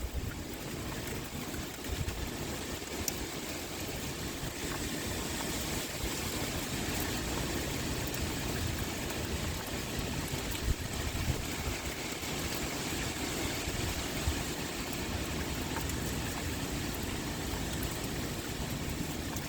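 Rain pouring steadily, with wind blowing and rumbling low underneath.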